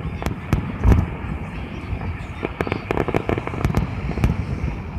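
Fireworks display going off: repeated bangs and pops, a loud boom about a second in and then a quick run of sharp cracks.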